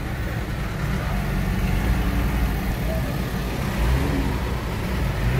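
A car's engine running with a steady low rumble, heard from inside the cabin.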